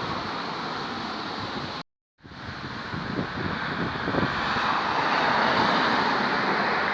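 Strong gusty wind buffeting the phone's microphone, a steady rushing noise that swells in a stronger gust after about four seconds. The sound cuts out completely for a moment about two seconds in.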